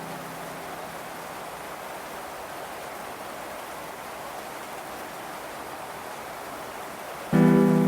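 Steady rain hiss. A held music note fades out at the start, and a new, louder note of the background music comes in near the end.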